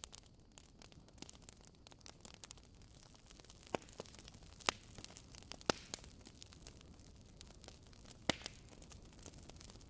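Wood burning in a fireplace, crackling: a steady scatter of small crackles over a faint low hiss, with four louder, sharper pops through the middle and latter part.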